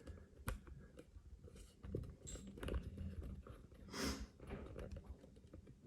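Faint scattered clicks and scrapes of a screwdriver working at the screws that hold a bathroom exhaust fan to its housing, with a short louder scrape about four seconds in.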